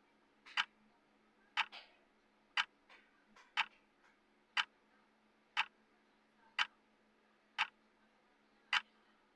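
Clock-style tick of a countdown timer: nine sharp ticks, evenly once a second, with fainter softer clicks between some of them and a faint steady hum underneath.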